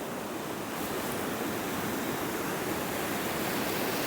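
Ocean surf washing steadily onto the beach, a continuous hiss of breaking waves.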